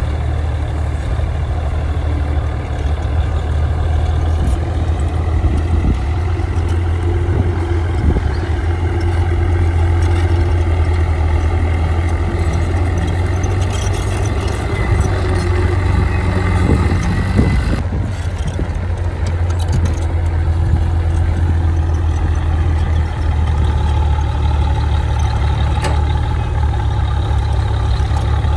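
Heavy diesel engine of earthmoving machinery running steadily with a deep drone.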